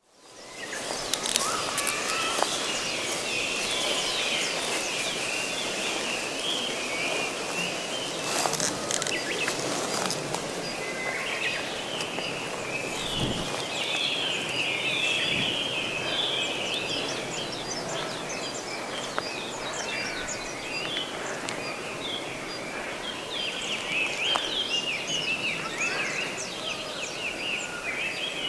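Woodland ambience of wild birds singing, a dense, continuous run of short chirps and trills, with a few brief clicks about eight to ten seconds in.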